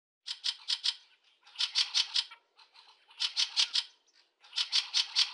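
Fieldfare giving its harsh chattering call: four quick runs of four or five dry, rasping notes, about one run every second and a half.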